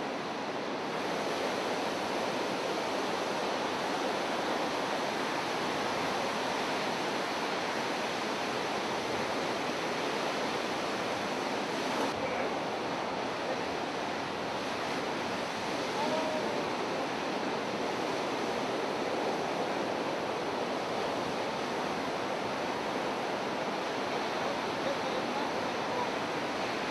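Steady rushing water noise, even and unbroken, with no distinct waves or impacts standing out.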